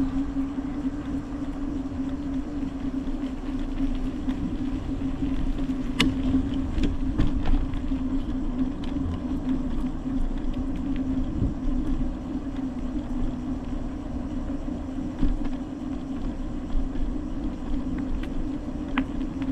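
Bicycle rolling at speed with wind rushing over the microphone, tyre noise on the road and a steady hum, broken by a few sharp clicks or rattles.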